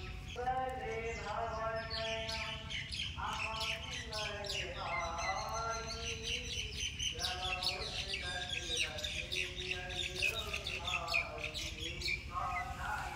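Birds chirping and twittering rapidly and continuously, over long wavering high-pitched calls.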